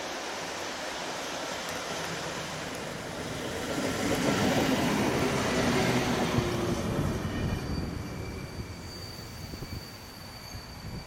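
EP07 electric locomotive pulling a passenger train runs slowly past, loudest about four to seven seconds in. Its coaches then roll by, with a steady high squeal from the brakes or wheels as the arriving train slows.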